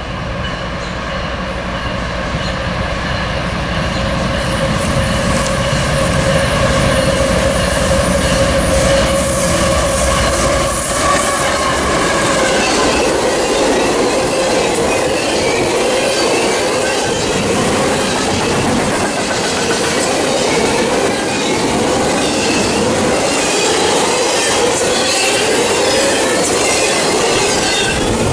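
Diesel freight locomotive's engine running steadily and growing louder as it approaches, then, from about eleven seconds in, intermodal well cars rolling past with a steady rumble of steel wheels on the rails and a wavering wheel squeal.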